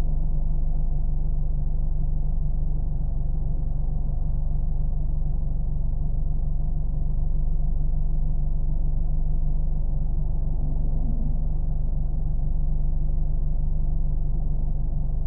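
Car engine running steadily, a continuous deep rumble with no revving or changes in pitch.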